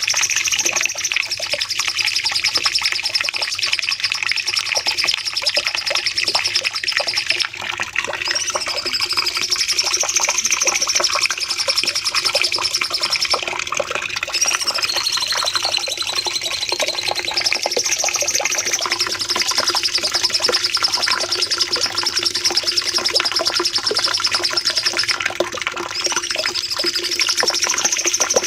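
Cucak cungkok singing a long, rapid, nearly unbroken trill with rising and falling warbled phrases. This is the extended 'nembak' (shooting) song used as a masteran to tutor other songbirds.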